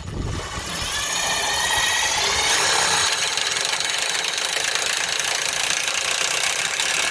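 Power drill driving a self-tapping screw into metal. Its motor whine climbs in pitch over the first couple of seconds as it spins up, then runs steadily under load.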